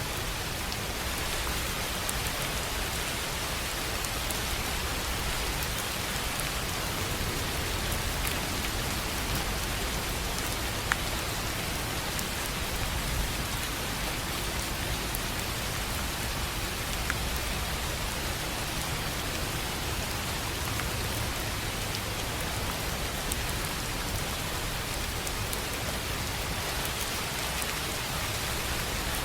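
Steady rain on a tin roof: an even hiss of rainfall with scattered single drops ticking, one sharper tick about eleven seconds in.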